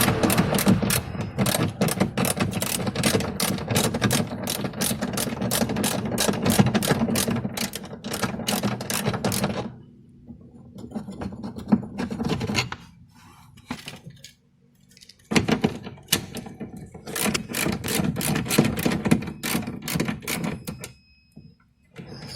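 Hand ratchet clicking in fast runs as screws are turned out, pausing for a few seconds in the middle before clicking again.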